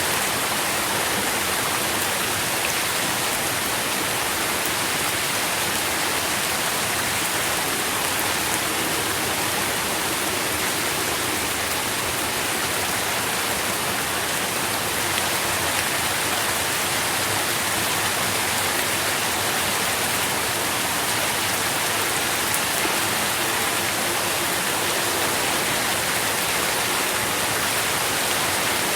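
Steady rain falling, an even wash of patter.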